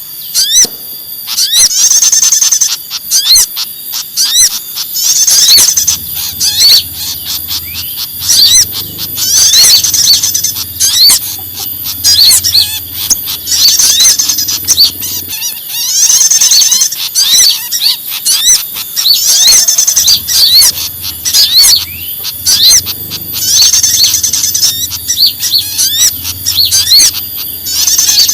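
Bird-lure recording of many small songbirds calling at once in agitated distress chatter, a mix of sogon, konin, prenjak (prinia) and kipasan (pied fantail) calls. High-pitched chirps and whistles run continuously, with louder bursts of chattering trills every few seconds.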